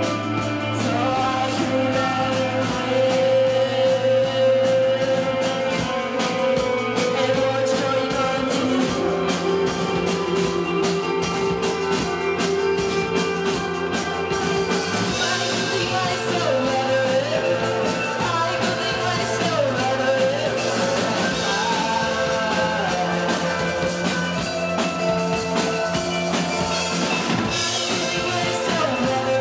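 Rock band playing live: drum kit and electric guitar, with a voice singing over them from about halfway through.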